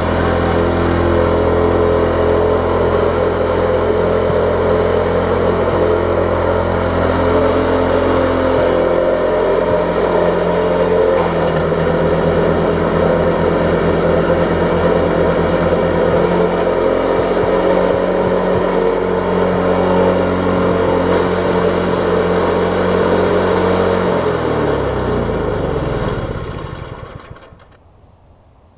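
White Snow Boss 500 snowblower's rebuilt engine running steadily, its pitch shifting slightly partway through. Near the end it is shut off, and the pitch slides down as it runs down to a stop.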